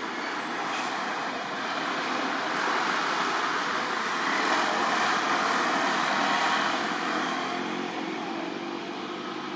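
A motor vehicle passing by: a rushing road noise that swells to a peak midway and then fades.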